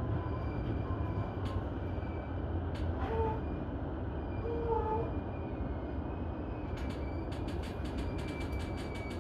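JR E233-1000 series electric train running at speed between stations, a steady rumble of wheels on rail. Brief tones sound about three and five seconds in, and a quick run of clicks near the end.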